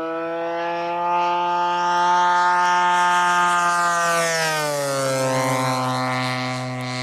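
Engine of a giant-scale radio-controlled P-40 model plane flying past: a steady engine note that swells, then drops in pitch between four and five seconds in as the plane goes by.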